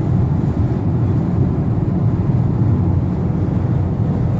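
Steady road and engine noise inside a car cruising on the highway, a low even rumble with no distinct events.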